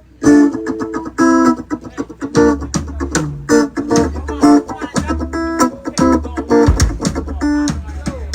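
Guitar music starting abruptly: short, sharp chord hits repeated about every half second to a second, over a low bass line.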